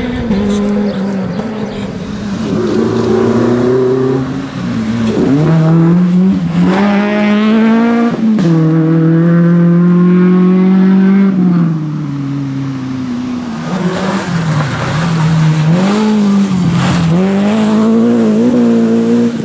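Rally car engine at full throttle, the pitch climbing through the revs and dropping sharply at upshifts, then falling and rising in quick swings as the driver lifts, brakes and blips the throttle on downshifts.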